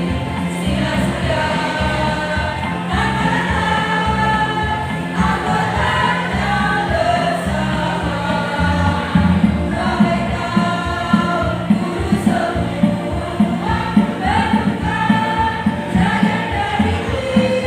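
A choir singing a song in held, stepping notes over a rhythmic instrumental accompaniment.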